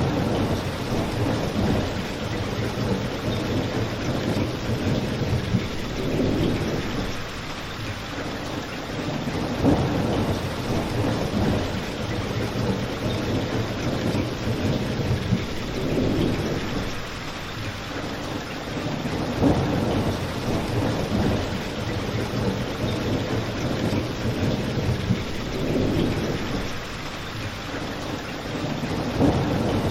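Steady rain with a crackling fireplace: an even hiss of rain under low rumbling swells that rise and fade every few seconds, with a few sharp pops.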